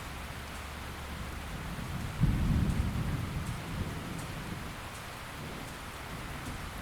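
Steady rainfall, with a low rumble of thunder that swells about two seconds in and fades over the next second or so.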